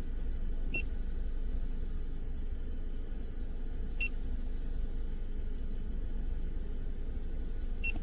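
A steady low rumble with three short, high electronic beeps about three and a half seconds apart.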